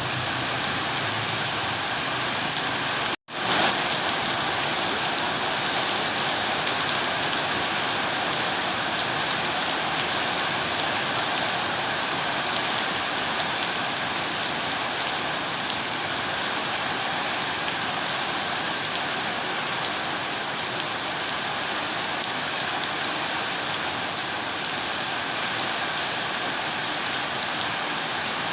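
Steady rain falling, an even hiss of drops, that cuts out for an instant about three seconds in before resuming.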